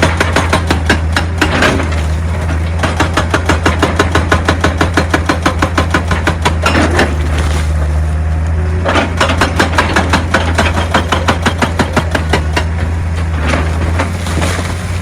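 Excavator's diesel engine running under load with a hydraulic rock breaker hammering stone in a rapid, even rhythm of about five blows a second.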